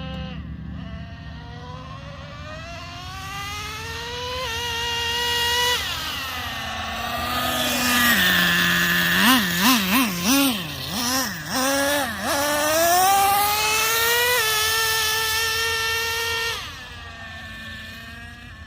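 Traxxas Revo 3.3's two-stroke nitro engine revving under throttle, its pitch climbing, dipping briefly as the 2-speed transmission shifts up, and climbing again. In the loudest middle stretch the pitch swings rapidly up and down with quick throttle blips. The engine drops off suddenly near the end.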